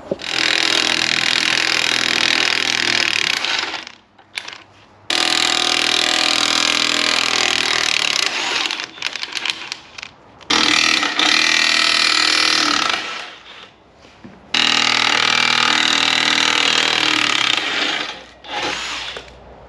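Impact wrench hammering at the tow bar bolts on a Hilux chassis, in four long loud runs of a few seconds each with short pauses between. The bolts are being broken loose to drop the tow bar off.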